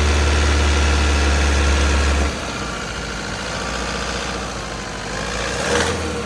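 2012 Toyota Hilux turbo diesel engine idling. A strong low drone cuts off abruptly a couple of seconds in, leaving a quieter, steady idle, with a brief knock near the end.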